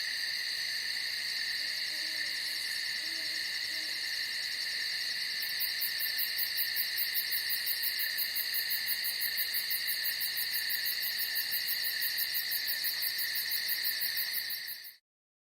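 Steady night chorus of insects, with faint low hoots a couple of seconds in and a rapid high-pitched pulsing trill joining about a third of the way through. The sound fades out to silence just before the end.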